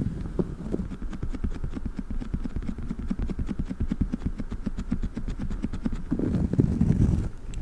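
Squishy durian stress toy being worked fast close to the microphone: a rapid, even patter of about ten soft strokes a second. Near the end it gives way to slower, louder squishing.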